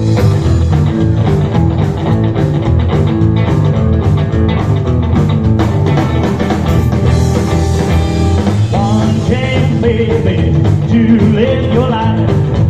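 Rock and roll band playing a song's instrumental opening: drums keep a steady beat under bass and guitar, and a bending lead melody comes in about nine seconds in.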